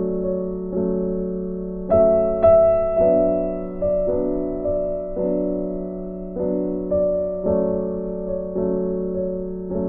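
Soft background piano music: slow chords struck about once a second, each ringing and fading before the next.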